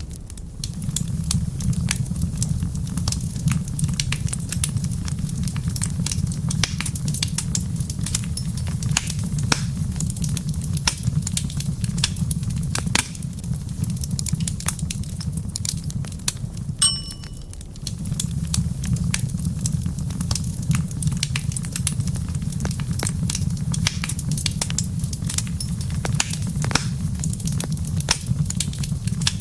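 Wood fire crackling in a fireplace: a steady low rumble of flames with frequent sharp pops and snaps. A brief ringing ping comes about 17 seconds in.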